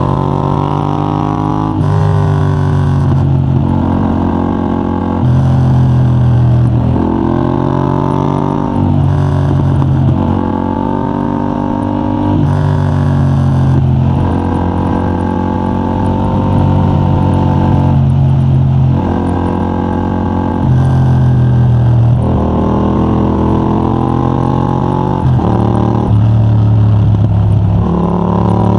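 Yamaha MT-07's 689 cc parallel-twin engine through a de-catted Mivv GP Pro titanium exhaust with a dB killer, pulling hard. Its pitch repeatedly climbs under throttle, then drops back every two to five seconds.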